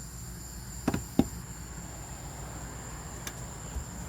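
Crickets keep up a steady high chirring. About a second in there is a quick cluster of three sharp clicks or knocks, with two fainter clicks later on.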